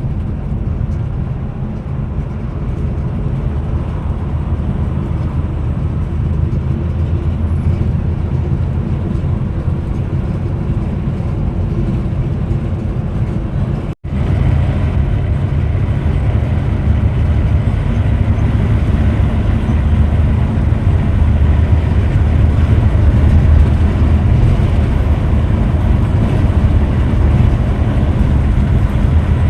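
Scania Metrolink multi-axle bus on the move: a steady low rumble of engine and road noise. It drops out for a split second about halfway through, where the recording cuts, then carries on as before.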